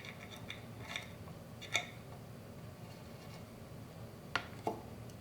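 Light clicks and taps of a small wire connector being worked into a hole in a 3D-printed plastic box, about half a dozen scattered clicks, the sharpest near two seconds and four seconds in.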